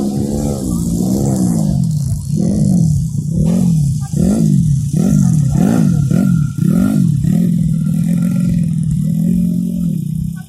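Motocross bike engine revving up and down in quick repeated swells, about twice a second, then holding a steady pitch for the last few seconds.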